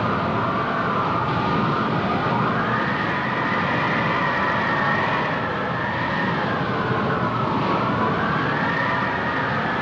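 A siren wailing, its pitch rising and falling slowly through about two long cycles, over a steady rushing background noise.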